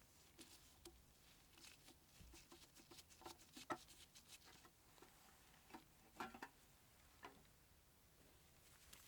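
Faint, scattered small clicks and taps, with the clearest ones bunched about three and a half seconds in and again about six seconds in, over a quiet room.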